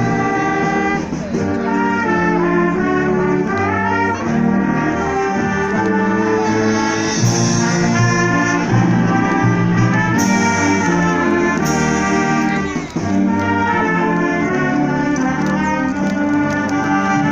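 Symphonic wind band playing, brass prominent, with three sharp crashes in the second half.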